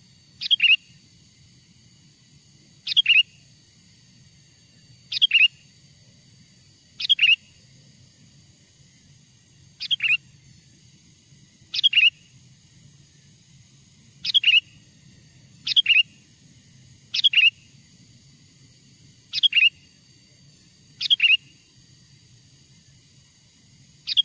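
Sooty-headed bulbul (kutilang) giving a short, sharp call about eleven times, every two seconds or so. Each call is a quick downward sweep ending in a doubled chirp. It is a lure call used to draw wild bulbuls in.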